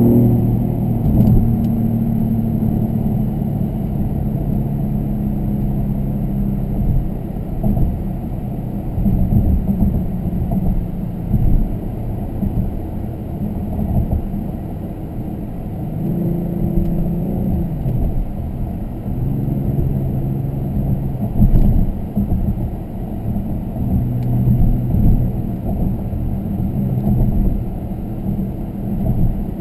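Inside the cabin of a Genesis G80 Sport under way, with its twin-turbo 3.3-litre V6 in Sport mode. The engine note, which Sport mode fills out with a fake engine sound, swells and drops several times over low road rumble.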